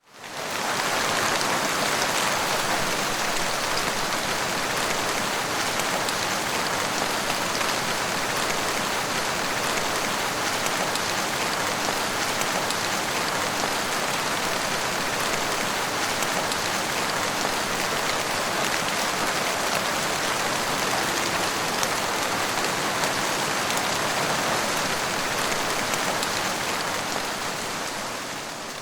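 Steady rain falling on a surface, a dense even hiss of countless drops with no thunder. It fades in at the start and fades out near the end.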